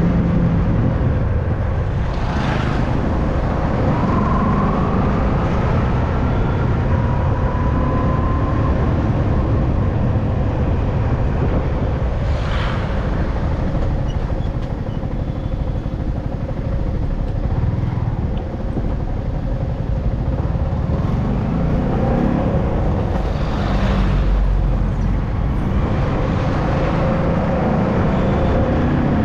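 Motorcycle running steadily on the road, with wind rushing over the microphone. Its note rises a few times in the first ten seconds, and there are three short swells of noise from traffic passing.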